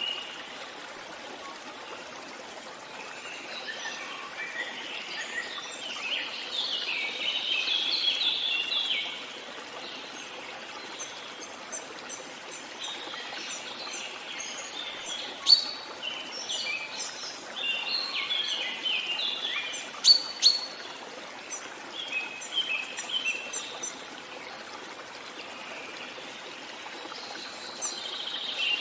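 Small songbirds chirping and singing in bouts over the steady rush of a flowing stream, with a couple of brief sharp ticks partway through.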